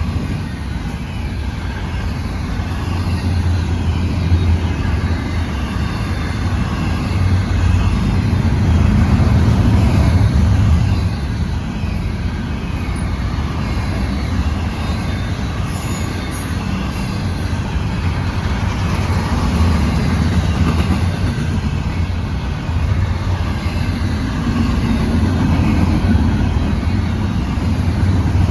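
Intermodal freight train rolling past a grade crossing: a steady rumble of wheels on rail that swells and eases every several seconds as the cars go by.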